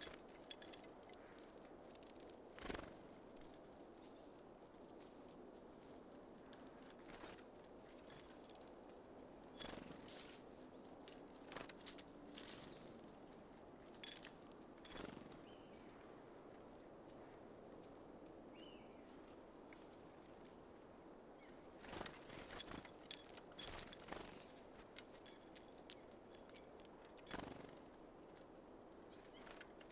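Small birds at a feeder: faint, short high chirps and calls, with scattered soft taps and clicks, over a quiet cold-morning background.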